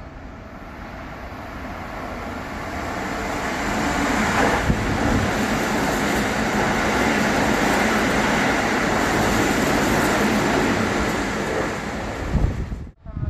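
Electric commuter train running through the station without stopping, its wheels rumbling on the rails. The sound builds as it approaches, stays loud while the cars pass, then eases as it leaves. The sound cuts off abruptly near the end.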